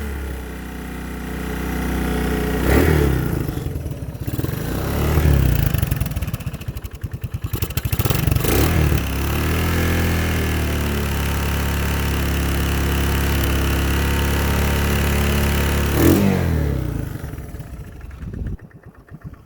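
1981 Honda ATC185S three-wheeler's single-cylinder four-stroke engine running cold on choke, rough and uneven, rising and falling in revs several times, then dying out near the end. Cold and angry; the owner thinks the idle needs adjusting.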